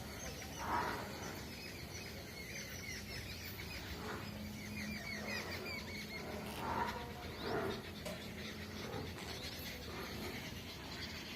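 Birds chirping in quick runs of repeated high notes, with a few short louder calls in between.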